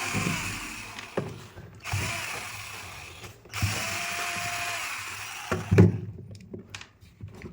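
Power drill-driver running in three bursts of a few seconds each, backing screws out of a hammer drill's housing. Irregular clicks and clatter of small metal parts follow near the end.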